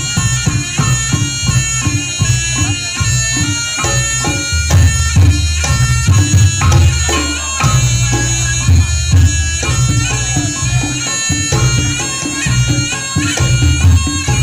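Reog Ponorogo gamelan ensemble playing: a nasal, bagpipe-like slompret shawm melody over a steady beat of kendang drums and low gong strokes.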